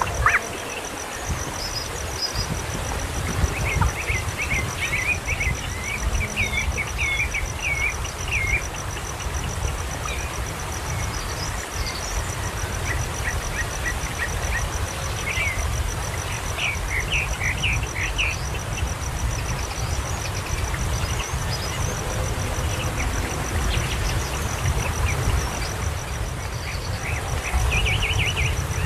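Bird chirping in quick runs of short calls, repeating several times, over a steady high pulsing insect trill and a continuous low rumble.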